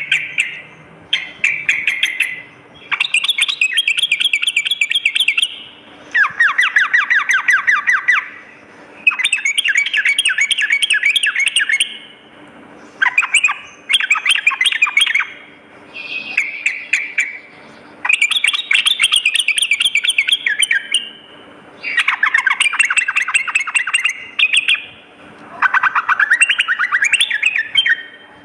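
Yellow-vented bulbul (trucukan) singing: a string of fast, chattering phrases, each a rapid run of notes lasting one to three seconds, repeated again and again with short pauses between.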